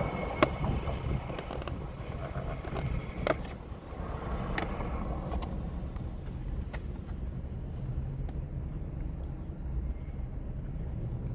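Steady low rumble with a few sharp clicks and taps: one near the start and two more about three and four and a half seconds in, like utensils knocking on a plate or container during eating.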